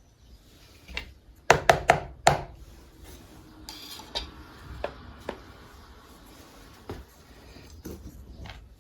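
Household objects being handled and set down: four sharp clacks in quick succession about a second and a half in, then scattered lighter knocks and clicks.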